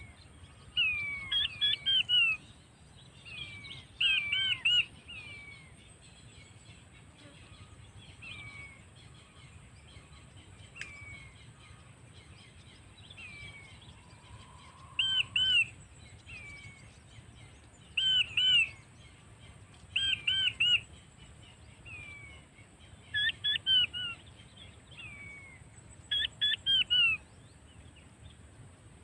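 Bird calls: short, sharply descending whistles in quick clusters of two to four, repeating every few seconds, with fainter single whistles in between.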